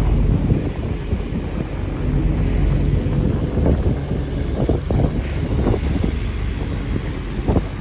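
A river tourist boat under way: steady wind buffeting the microphone over the low rumble of the boat's engine and the water. There are a few short thumps about halfway through and near the end.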